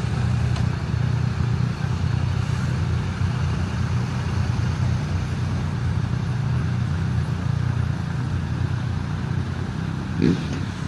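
An engine running steadily with a low, even drone, with a brief louder bump near the end.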